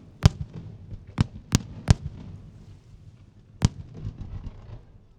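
Aerial fireworks shells bursting: five sharp bangs, three in quick succession about a second in and one more past three seconds, with a low rumble and faint crackle between them.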